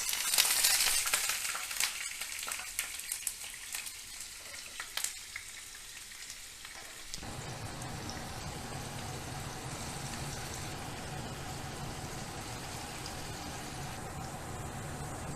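Paneer pieces sizzling in hot oil in a nonstick pan, loudest in the first couple of seconds as they go in, with light clicks of pieces being placed. About seven seconds in, the sound changes abruptly to a steady, even lower noise.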